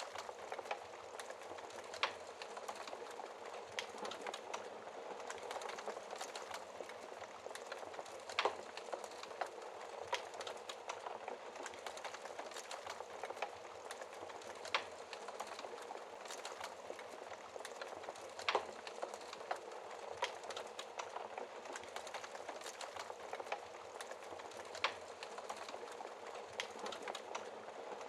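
Wood fire burning in a fireplace with a steady crackle and a sharp pop every few seconds.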